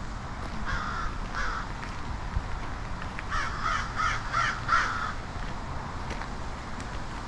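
A bird calling: two short calls about a second in, then a quick run of five calls a couple of seconds later.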